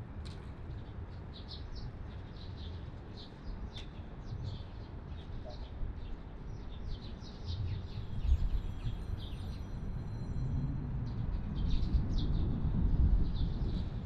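Small birds chirping in quick short calls over a steady low rumble of outdoor background noise, which grows louder in the second half.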